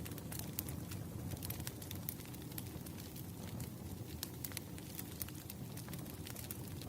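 Firewood burning and crackling: irregular sharp pops and snaps over a steady low rumble of the flames.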